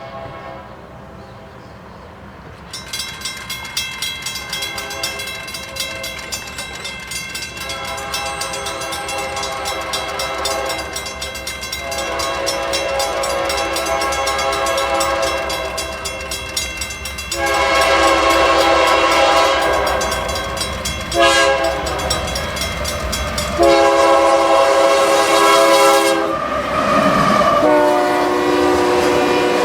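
A train passing close by, sounding its air horn in a series of long, loud blasts, each a chord of several tones, over a steady rhythmic clatter of wheels on rail joints. Near the end the horn's pitch bends downward as it goes by.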